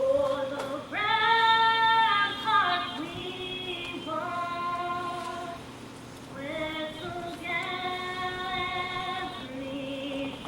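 A woman singing slow phrases of long held notes, with a short break about halfway through.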